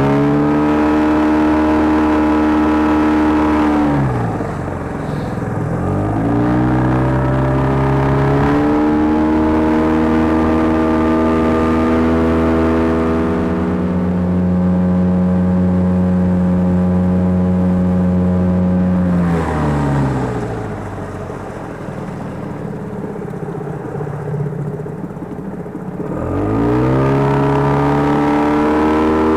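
Outboard motor of a small boat running under way, its pitch rising and falling as the throttle is eased off and opened up again: it drops about four seconds in, climbs back over the next few seconds, drops again past the middle to a lower speed for several seconds, and rises once more near the end.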